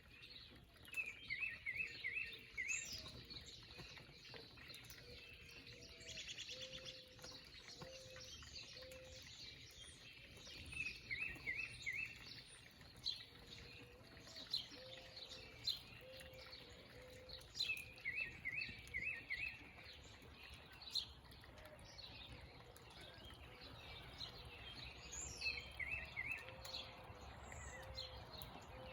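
Several wild birds singing and calling: one repeats a short phrase of four or five quick notes about every seven seconds, among scattered high chirps and runs of low, evenly spaced notes.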